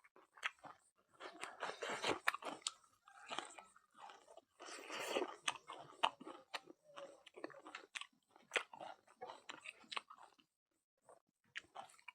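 Close-miked chewing and crunching of food, with many quick sharp mouth clicks and wet smacks and a short pause near the end.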